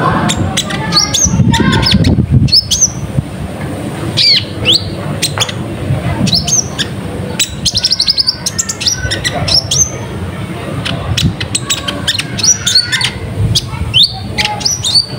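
Konin (kolibri ninja) sunbird singing in a fast chatter of short, high-pitched chirps and quick sweeping notes, run together in rapid bursts with brief gaps.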